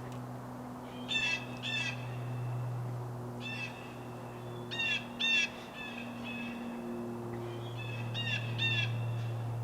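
Birds calling: short, harsh, hooked calls in clusters of two or three, three times, over a steady low hum.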